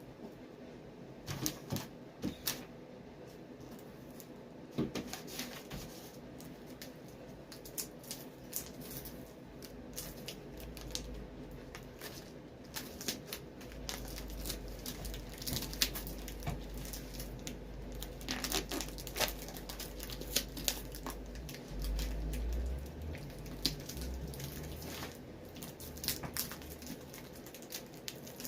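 Handling noise from clamping a boot sole being re-glued: scattered clicks, crinkles and tearing sounds of tape and straps being worked, with a low rumble through the second half.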